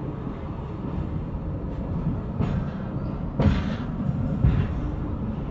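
Train running along the track, heard from aboard: a steady low rumble with a few louder clunks of the wheels over the rails, about a second apart near the middle.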